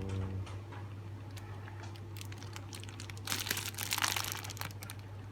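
Plastic packaging crinkling and rustling as a new eel-catching tongs is handled and unwrapped, with scattered crackles and a denser stretch of crinkling a little past halfway, over a low steady hum.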